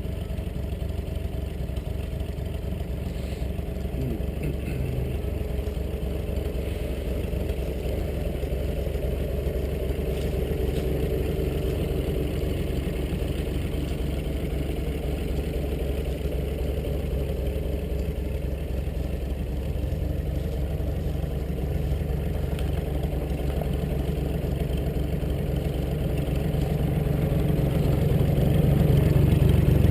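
1953 Cockshutt 50 tractor's six-cylinder engine running steadily with a clattery pulse, growing louder over the last few seconds.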